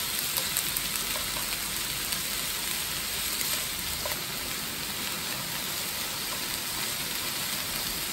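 Whiteleg shrimp and sliced peppers, onion and zucchini sizzling steadily in an oiled frying pan over high heat, with a few faint taps of chopsticks against the pan.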